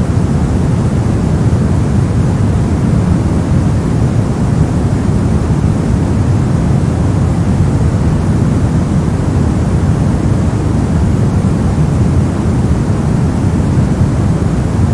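Steady, unbroken white noise, a constant rush that is heaviest in the low end and thins out toward the top, with no change in level.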